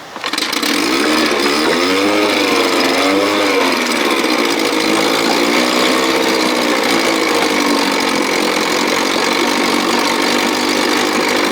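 1957 Sea King 5 hp two-stroke outboard motor starting up and running loudly. Its speed rises and falls a few times in the first seconds, then it settles into a steady run.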